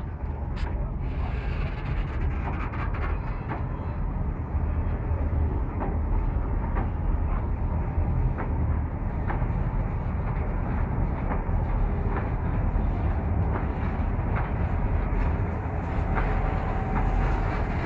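Work train of ballast hopper wagons rolling slowly past at close range: a steady low rumble with scattered clanks from the wheels and couplings. The rumble grows heavier near the end as the diesel locomotive draws near.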